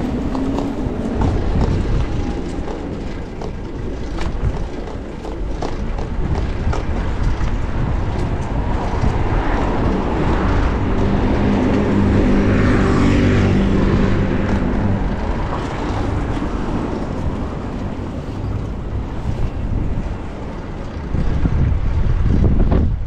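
Wind rushing over an action camera's microphone while cycling through city traffic. A motor vehicle's engine hum swells as it passes, loudest about twelve seconds in.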